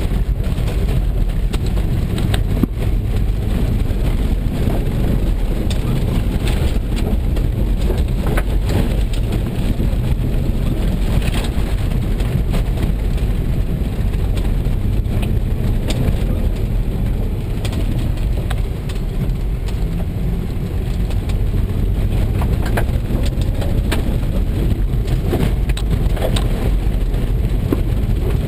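Volvo S60R's turbocharged five-cylinder engine running hard through a dirt rallycross course, heard from inside the cabin, with gravel and dirt pelting the underbody and wheel wells in a constant patter of stones.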